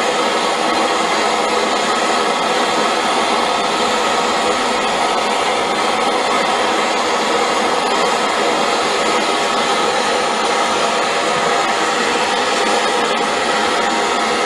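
Propane torch burning with a steady, loud hiss, preheating the hot bulb of a two-stroke hot bulb engine before starting.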